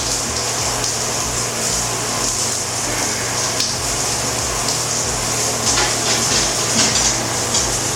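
Shower running: water spraying in a steady hiss, with a low hum underneath.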